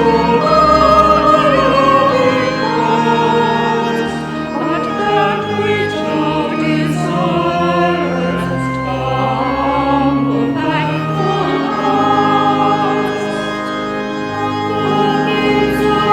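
Church choir singing slow, sustained choral music, with low held organ notes beneath the voices.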